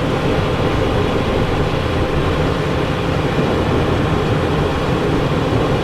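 Steady cockpit noise of a Cessna Citation Encore business jet on approach, made of airflow and engine hum with the landing gear down.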